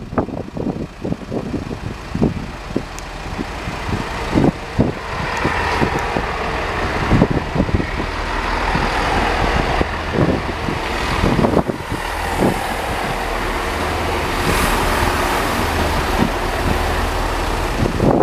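Class 166 diesel multiple unit passing over a level crossing: diesel engine and wheel noise that builds from about four seconds in and eases near the end, over a steady low hum and irregular knocks.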